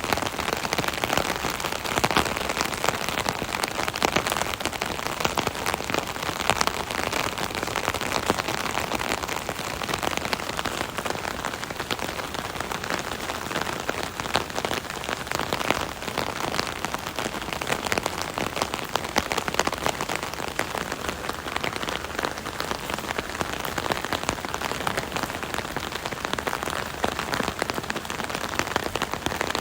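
Steady rain pattering on an umbrella canopy overhead, a dense continuous patter of drops with many sharp individual hits.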